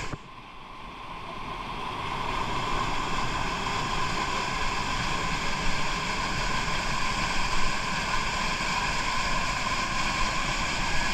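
Waterfall's water pouring and splashing in a steady rush of noise, fading up over the first couple of seconds and then holding level.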